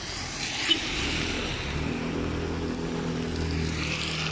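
Heavy rain on an umbrella and on a wet city street, with traffic: tyres hissing on the wet road and a car engine humming through the middle. A single sharp knock a little under a second in.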